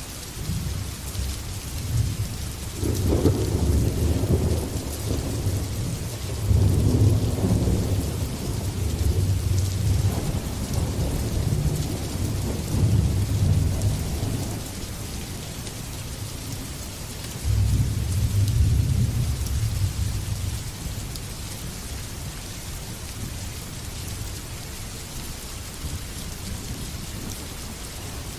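Steady heavy rain hissing, with long rolls of thunder rumbling low. One roll builds about three seconds in and rumbles on for some ten seconds. A second, shorter roll comes a few seconds later, and then only the rain remains.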